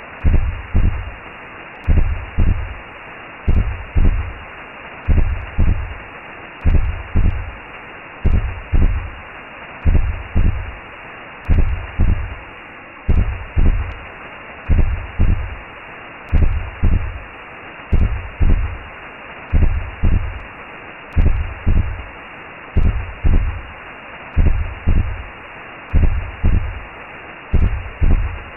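Recreated womb sound: a slow, muffled double-thump heartbeat, a pair of low thumps about every second and a half, over a steady whooshing hiss.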